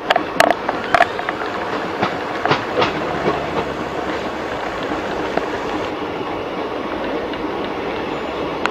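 Passenger train running on the rails, heard from alongside the coaches: a steady running noise with sharp wheel clicks over the rail joints, most of them in the first three seconds.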